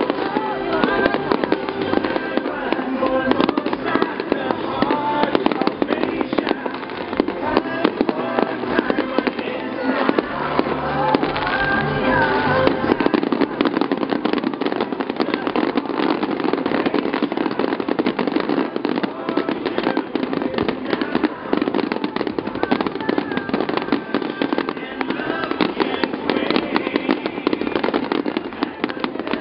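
Fireworks display going off continuously, a dense run of crackling and popping with no pause, mixed with music and voices.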